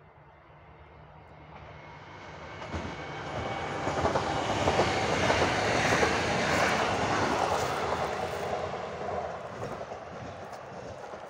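Regional electric multiple unit passing by, swelling as it approaches, loudest in the middle with its wheels clicking over the rail joints, then fading as it moves away.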